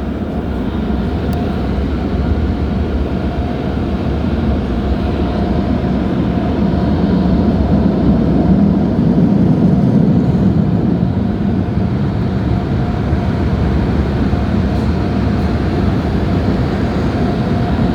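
Tunnel car wash air dryers blowing on the car, heard from inside the cabin: a loud, steady rush of air with a faint fan hum, swelling to its loudest about halfway through.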